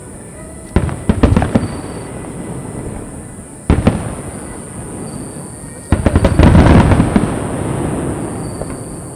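Aerial firework shells bursting: a few sharp bangs a little under a second in, another bang near four seconds, and a dense volley of cracks about six seconds in, each trailing off into a fading rumble.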